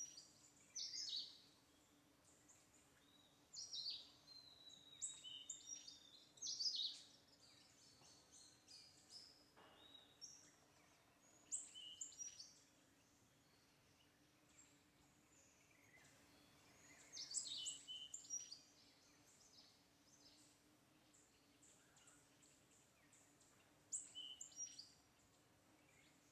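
Small wild birds chirping in short, high bursts a few seconds apart, over a faint steady hum.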